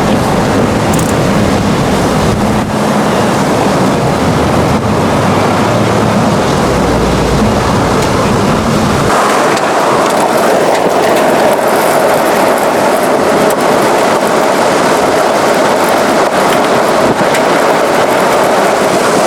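Loud, steady rushing wind noise buffeting the microphone. A deep rumble underneath drops away abruptly about nine seconds in, leaving a hissing rush.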